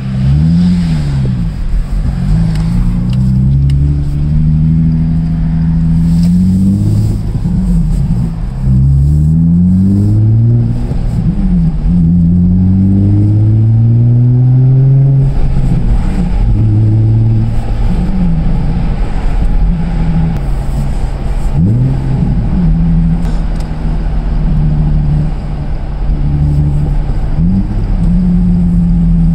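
Nissan VQ35DE 3.5-litre V6 engine of a 2005 Skyline 350GT being revved again and again: the pitch climbs and drops, sometimes holding steady for a second or two in between.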